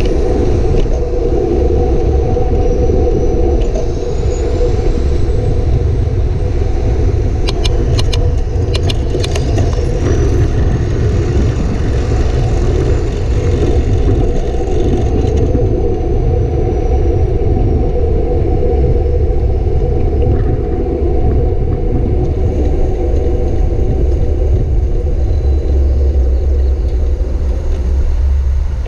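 Steady rumble of wind and road noise on the microphone of a moving bike, with a short run of sharp clicks about eight seconds in.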